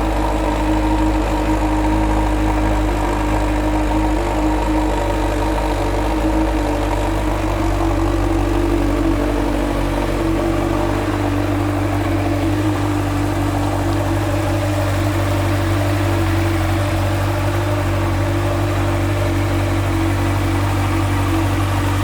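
2013 Honda CB1000R's inline-four engine idling steadily through its twin Danmoto slip-on exhausts.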